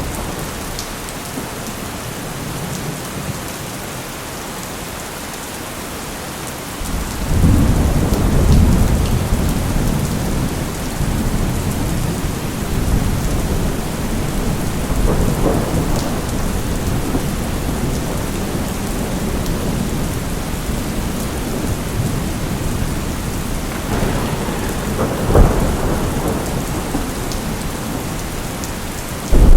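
Steady heavy rain with rolling thunder: a thunderclap breaks in about seven seconds in and rumbles on, with further peals later on and another sudden loud clap right at the end.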